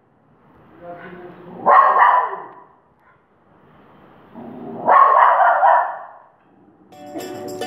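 Japanese Spitz barking in two bouts about three seconds apart, each a quieter lead-in breaking into loud barks. Plucked-string music fades in near the end.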